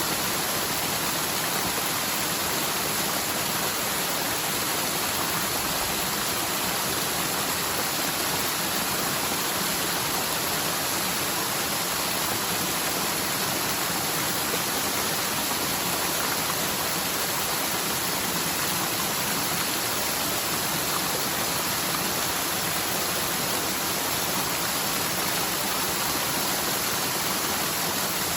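Rain-swollen mountain stream rushing steadily over rocks in a forest.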